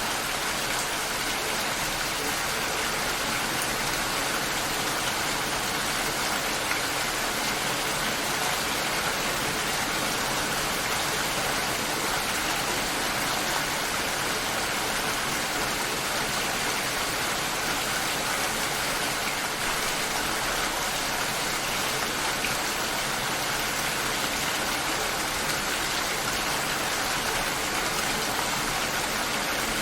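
Steady rain shower falling, an even hiss of rain.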